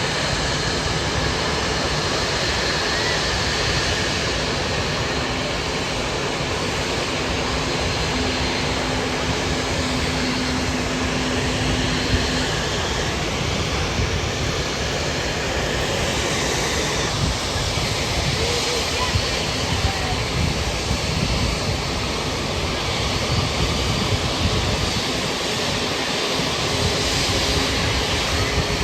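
Jet airliner engines running: a steady rushing noise with a faint high whine, unbroken throughout.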